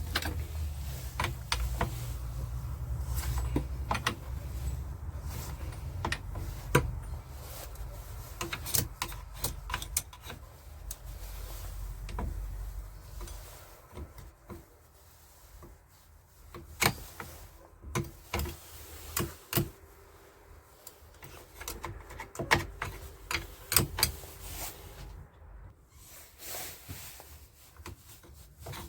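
Scattered clicks and knocks of hands working on a Stihl MS 170 chainsaw as its chain is tensioned on the bar, over a low rumble that fades out about halfway through.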